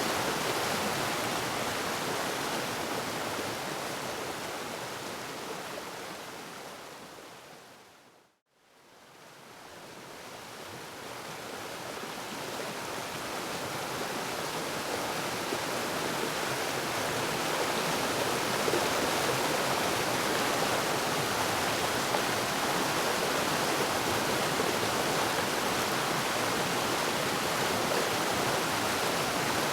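Waterfall: a steady, full rush of falling water. It fades out to silence about eight seconds in, then swells back up over the next several seconds.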